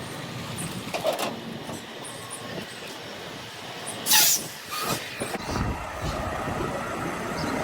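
Semi truck running during a slow maneuver, with a short, loud air-brake hiss about four seconds in; from about five and a half seconds a louder, deeper engine rumble takes over.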